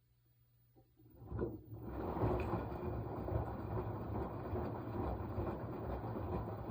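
Washing machine running: after a click, a few seconds of the drum turning with a low motor hum and a dense rushing noise, starting about a second in and dying away near the end.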